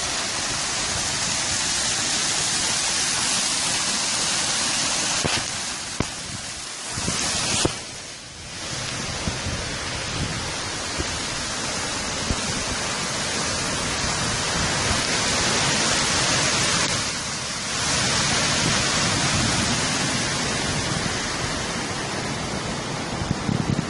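Heavy rain pouring down: a loud, steady hiss that dips briefly twice, with a few sharp knocks.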